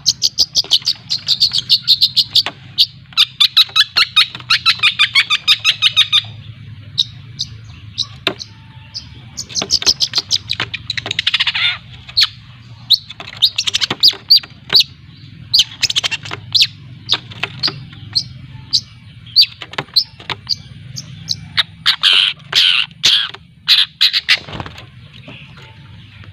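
Young long-tailed shrike (cendet) chattering and practising its 'ngriwik' trill. A fast run of sharp repeated notes lasts about six seconds, followed by scattered chips and a few longer, harsh calls.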